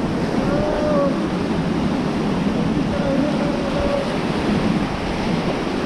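Rushing whitewater of river rapids under a raft, a steady loud roar of water mixed with wind buffeting the microphone. Faint distant voices call out briefly twice.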